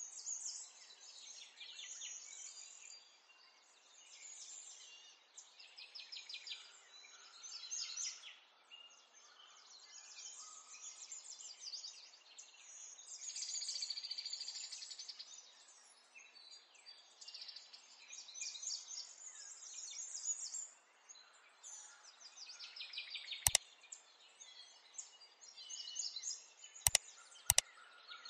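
Birds chirping and trilling in quick repeated phrases over a faint steady outdoor background noise. Three sharp clicks come near the end.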